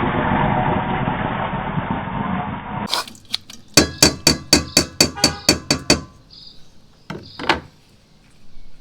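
A steady rumbling noise that cuts off abruptly about three seconds in, followed by a quick run of about a dozen sharp, ringing knocks, three or four a second, and two more knocks near the end.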